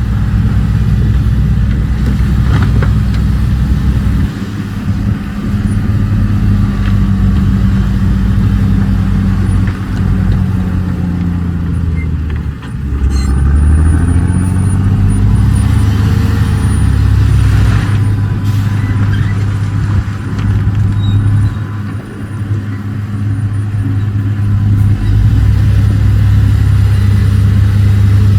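Heavy dump truck's diesel engine running hard and steadily. About halfway through the revs fall and dip briefly, then climb again.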